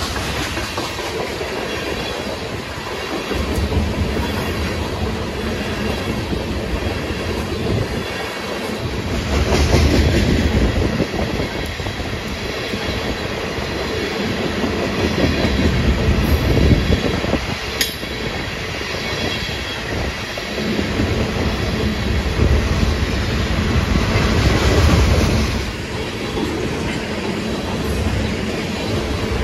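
Freight train of crude-oil tank cars rolling past at close range: a continuous rumble of steel wheels on rail with clickety-clack over the rail joints, swelling and easing every few seconds as the cars go by.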